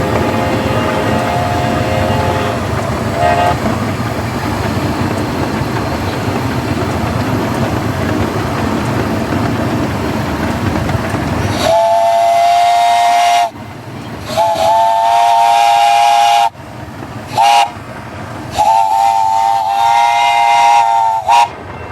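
Grand scale 16-inch gauge steam train running along with a faint whistle in the distance, then the steam locomotive's chime whistle blows loud, several notes at once, in two long blasts, a short one and a long one, the long-long-short-long signal for a grade crossing.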